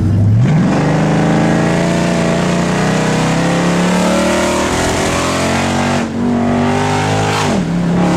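Dodge Challenger SRT-8's V8 through a Mopar exhaust, revving sharply from idle and held at high revs for several seconds, the pitch slowly climbing, with a brief dip about six seconds in and a drop in revs near the end. A steady hiss of noise runs under the engine note.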